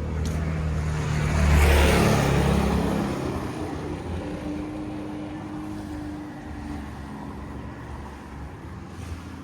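A motor vehicle passing close by: its engine noise swells to a peak about two seconds in, then fades slowly away.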